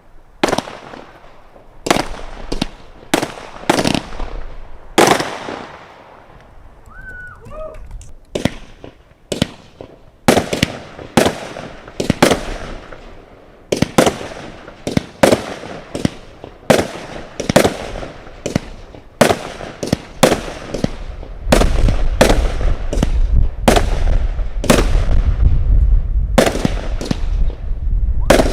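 Consumer firework cakes firing: sharp aerial-shell bangs in quick, irregular succession, with a short lull about a quarter of the way in. In the last quarter a dense low rumble builds up beneath the bangs.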